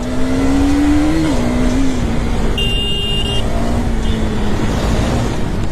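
Motor vehicle engine running with road noise, its pitch rising slightly then dropping back about a second in and holding steady. A brief high tone sounds a little before halfway.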